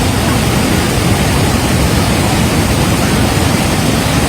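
Floodwater rushing, a loud, steady roar with no let-up.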